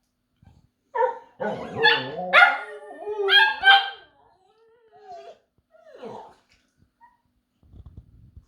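Husky-cross pomsky 'talking': a run of loud yips and yowling calls from about a second in to about four seconds, then a quieter wavering whine and one short falling yelp.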